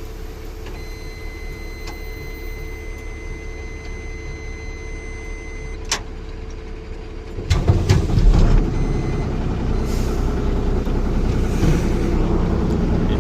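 A truck's dashboard warning buzzer sounds a steady high tone for about five seconds, then a click, and about seven seconds in the diesel truck engine cranks, catches and settles into a louder running idle.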